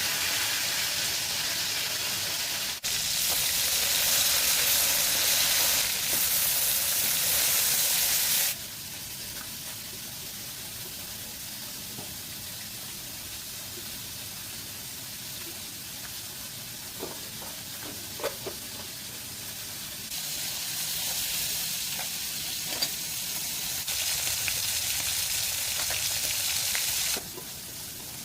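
Food sizzling as it fries, a steady hiss that jumps abruptly louder and softer several times, with a few faint ticks.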